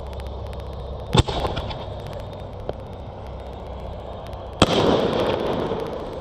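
Two sharp firework bangs about three and a half seconds apart, each followed by a tail of noise; the second tail is longer, lasting about a second and a half.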